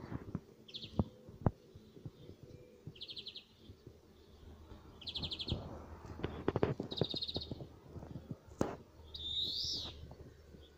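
Small songbirds calling: four short, rapid high trills, then a single slurred call near the end. Several sharp knocks and some rustling close to the microphone are loudest, at the start, a second and a half in, and about eight and a half seconds in.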